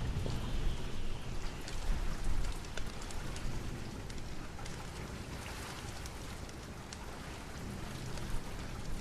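Steady rain with a low rumble of thunder that fades away over the first three seconds or so, and scattered sharp crackles throughout.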